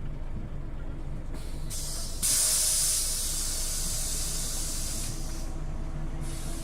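Compressed air hissing from a Scania OmniLink city bus's pneumatic system. A short hiss comes about a second and a half in, then a louder release of about three seconds, and another short one near the end, over the bus's steady low hum.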